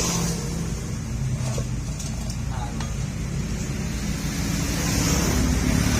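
Honda Accord engine idling through a newly fitted aftermarket racing exhaust, with a steady low note that climbs to higher revs about five seconds in.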